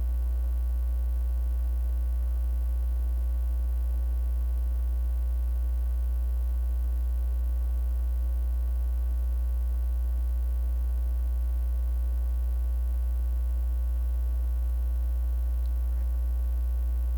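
Steady electrical mains hum in the sound system's audio feed: a strong low drone with a series of fainter, evenly spaced higher tones above it.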